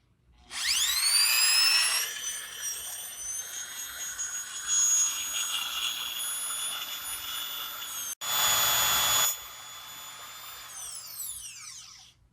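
Milwaukee rotary percussion drill's electric motor spinning up with a rising whine and running steadily. About eight seconds in it cuts out for an instant and comes back with a louder, noisier stretch of about a second, then winds down with a falling whine near the end.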